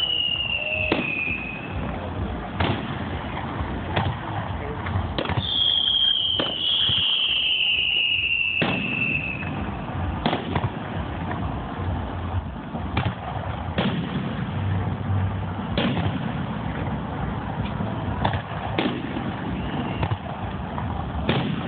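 Aerial fireworks going off: a run of sharp bangs, one every second or two. Whistling shells glide down in pitch right at the start and again from about five to nine seconds in.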